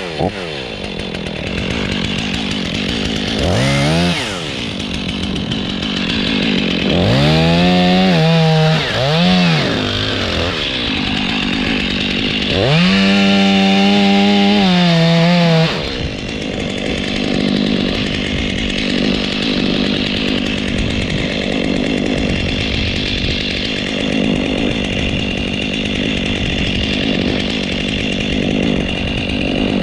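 Chainsaw revved in throttle bursts: a short one about four seconds in, two quick ones around eight to nine seconds, and a longer held burst from about twelve to sixteen seconds. A steady lower running noise lies underneath throughout.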